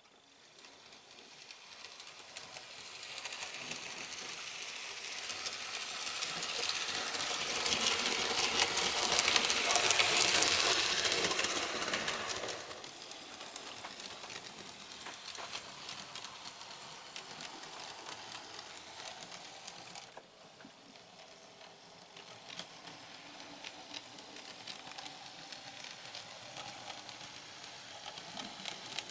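00 gauge model train running on handbuilt track, with its motor whirring and wheels ticking on the rails. It grows louder to a peak about ten seconds in, drops off sharply just after twelve seconds, then runs on more quietly.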